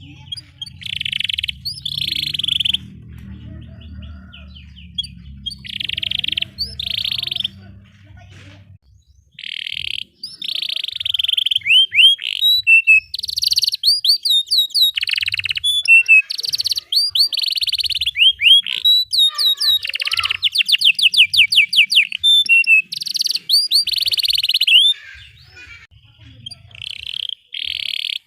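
Domestic canary singing a long, energetic song of buzzy phrases, rapid rolling trills and quick upward-sweeping chirps, getting busier and louder from about ten seconds in.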